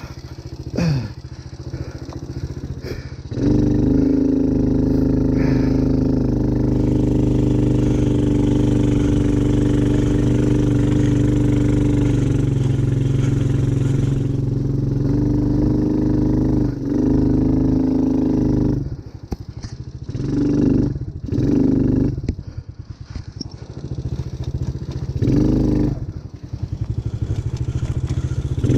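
ATV engine running, quieter for the first few seconds, then held at a steady throttle for a long stretch. In the last third the revs drop and pick back up several times.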